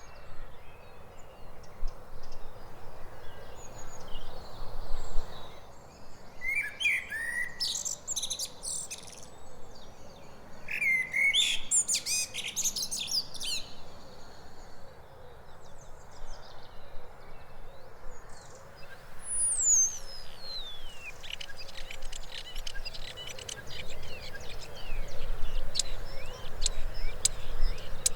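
Common blackbird singing two rich fluty phrases, each ending in a high twitter. About 19 seconds in, a common starling takes over with a long falling whistle followed by rapid electrical-sounding crackles and clicks.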